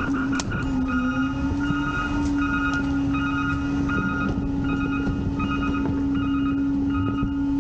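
Garbage truck's packer running its compaction cycle: a steady hydraulic hum that rises slightly in pitch just after the start, then holds. Over it an electronic warning beeper pulses on and off, a little more than once a second.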